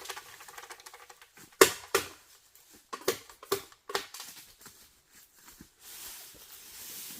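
A series of irregular light knocks and clicks, the sharpest about a second and a half in, followed by a soft hiss near the end.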